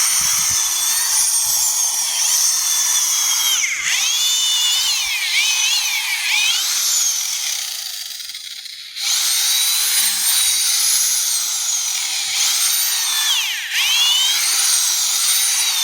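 Electric hammer drill turning a long auger in compost, with a high motor whine. The whine dips in pitch as the motor bogs under load and then recovers, sharply about four seconds in and again near the end; it eases off around eight seconds and picks up again a second later.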